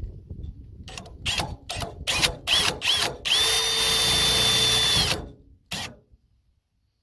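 Power drill driving self-drilling steel screws: several short trigger pulls with the motor whine rising in pitch, then one steady run of about two seconds, and a last short burst near the end.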